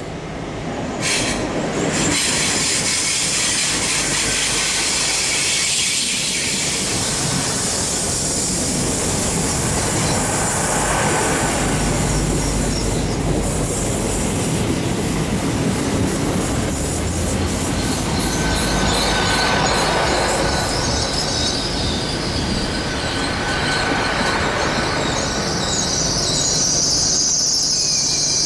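A Great Western Railway Hitachi Intercity Express Train runs into the platform and past at close range, its coaches rumbling steadily. A high wheel squeal rises near the end as it slows.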